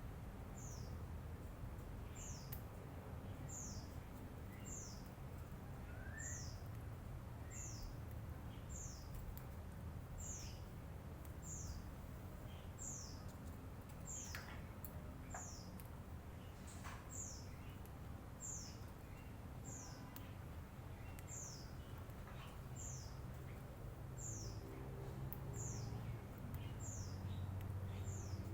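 Lovebird giving short, high-pitched, falling chirps at an even pace, about one every second and a half, over a faint low rumble.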